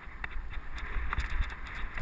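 Mountain bike ride heard from a helmet camera: wind buffeting the microphone, with tyre noise on the trail and scattered, irregular clicks and rattles from the bike.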